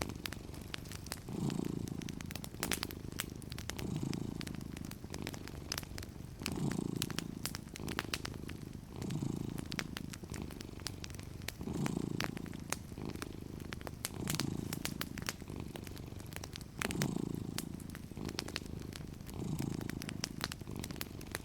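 Domestic cat purring, swelling with each breath about every two and a half seconds, over the scattered crackles and pops of a wood fire.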